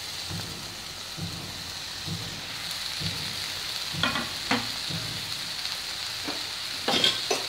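Chopped tomatoes sizzling in a frying pan of hot spiced onion-garlic-ginger paste over a gas flame. It makes a steady frying hiss, with a few short clicks about four seconds in and again near the end.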